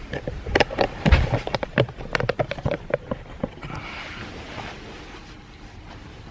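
A quick, irregular run of sharp clicks and taps lasting about three and a half seconds, followed by a softer rustling hiss that fades out.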